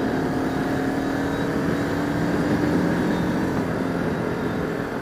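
Bajaj Pulsar RS200's single-cylinder engine running under way, heard from the rider's helmet camera. Its note holds steady, then settles lower a little past halfway.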